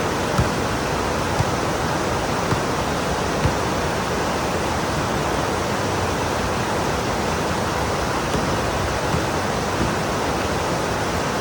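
Heavy, pouring rain as a steady, even hiss, with a few louder taps about a second apart in the first few seconds.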